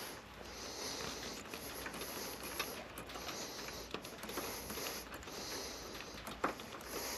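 A man breathing heavily close to the microphone, slow regular breaths, with small clicks and rustles of hands working on wires and tools and one sharper click about six and a half seconds in.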